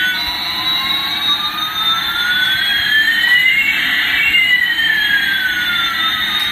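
Electronic jet-engine sound effect: a steady hiss with one tone sliding up and another sliding down, crossing about four seconds in.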